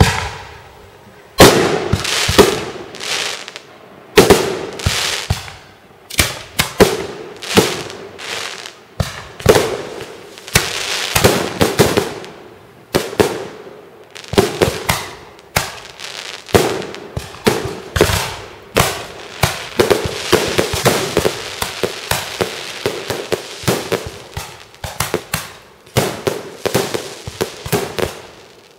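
Fireworks display: a rapid, continuous barrage of aerial shell bursts, several bangs a second, each followed by a crackling tail.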